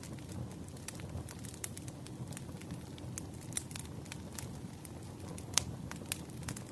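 Wood fire crackling: irregular sharp pops and snaps, the loudest about five and a half seconds in, over a steady low rumble of burning logs.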